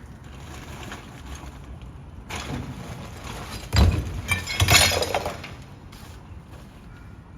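Two loud crashing, clattering impacts about a second apart near the middle, with a smaller clatter shortly before, over a low steady rumble.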